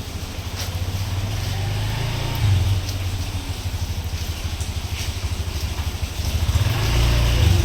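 Rain falling, an even hiss with scattered drop ticks, over a strong low fluttering rumble that swells twice.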